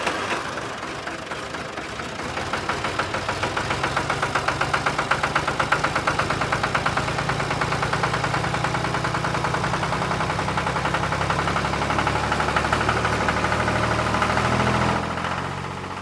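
Engine running with a fast, even knock, building up over the first few seconds, holding steady, then fading near the end.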